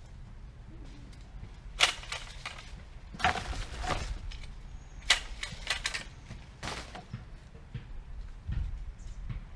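Tree branches being cut and snapping: four or five sharp cracks a second or two apart, each followed by a short crackle of twigs and leaves.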